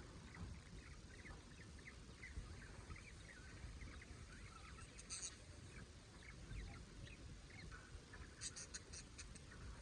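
Budgerigars chattering softly in quick, short chirps, with a few sharp clicks about halfway through and a run of clicks near the end.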